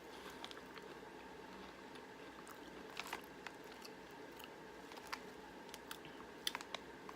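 Faint chewing of crunchy ketchup potato chips, with scattered sharp crunches over a quiet background.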